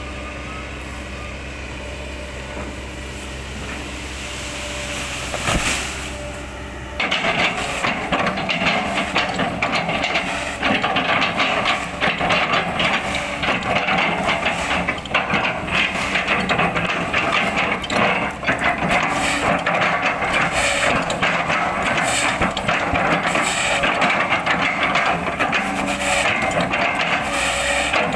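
Excavator engine running steadily, then from about seven seconds in a continuous dense crackling and crunching as oil palm trunk wood is chipped and splintered.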